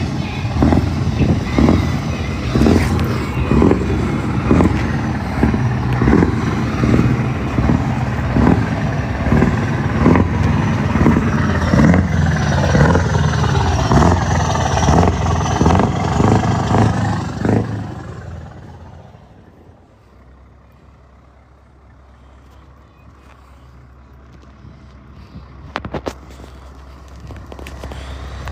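Truck engine running close by with a steady, even pulse, about two beats a second. It fades away over a couple of seconds about eighteen seconds in.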